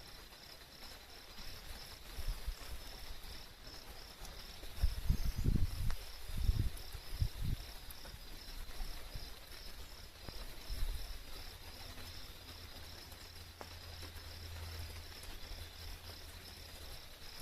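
Insects chirping in a steady, high, evenly pulsing rhythm. Low rumbling thumps, like wind or handling on the microphone, break in a few times around the middle.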